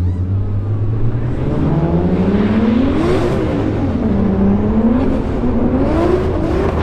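Turbocharged 2JZ inline-six in a Nissan S14 drift car, run hard under load: the engine climbs steadily in pitch for about three seconds, drops back, then rises and falls twice more as the throttle is worked. A brief rush of noise comes near the top of the first and last rises.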